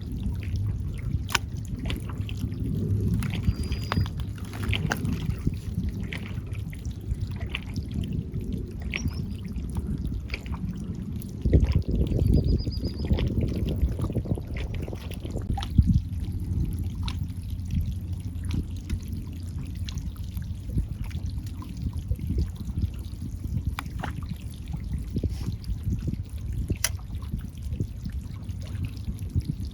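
Sea water sloshing and splashing against a breakwater, with a gusting low rumble of wind on the microphone and a stronger surge of water about twelve seconds in.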